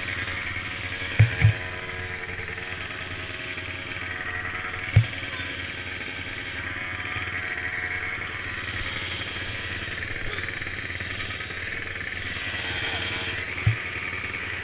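Small mini quad engines running steadily, with a few short dull thumps.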